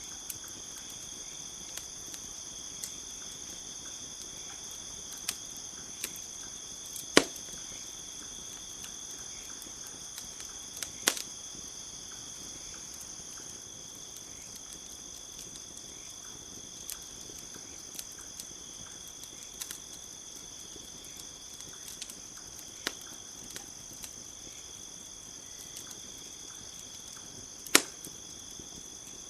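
Campfire crackling with scattered sharp pops, three of them much louder, about a quarter of the way in, just over a third of the way in and near the end, over the steady high chirring of crickets.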